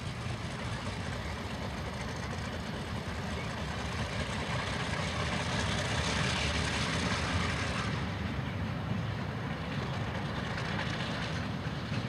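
ALCO diesel locomotives running: a steady low engine rumble with a hiss that swells to its loudest around the middle and eases off after about eight seconds.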